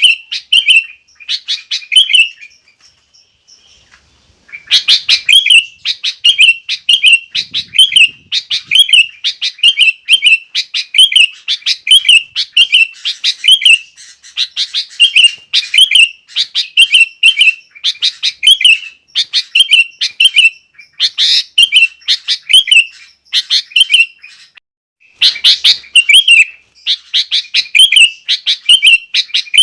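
Sooty-headed bulbul song: loud, bubbly whistled phrases, each a quick run of notes ending in a curved whistle, repeated about once a second. The song pauses for about two seconds near the start and briefly again near the end.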